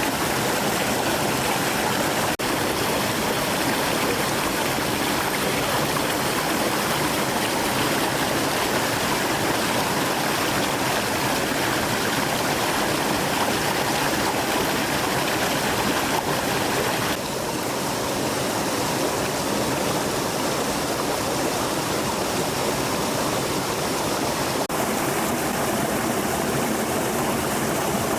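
Steady rush of a flowing stream, its tone changing slightly about two-thirds of the way through and again near the end.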